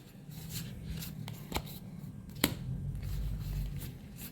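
Trading cards being flipped and slid against each other by hand, a soft rustle with a few sharp clicks, the clearest about one and a half and two and a half seconds in.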